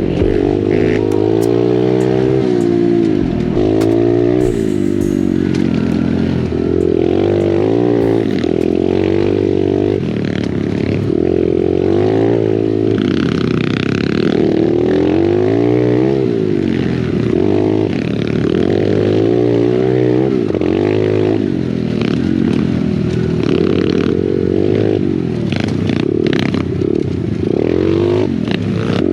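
Pit bike engine being ridden hard, its pitch climbing and dropping again every second or two as the throttle is worked and the gears change.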